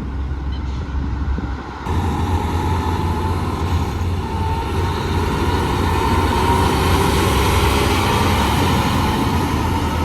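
Heavy truck driving past: engine rumble and tyre noise building to its loudest about seven seconds in.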